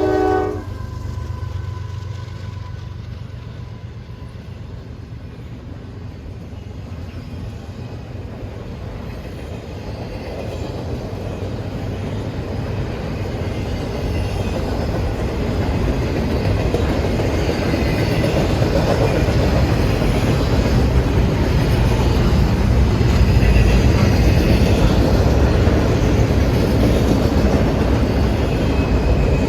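A train horn blast cuts off about half a second in. Then the low rumble of an approaching train builds steadily, growing louder as it nears.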